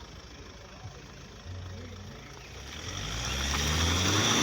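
A car driving slowly past: a low engine note with tyre noise, growing steadily louder over the second half as it comes close.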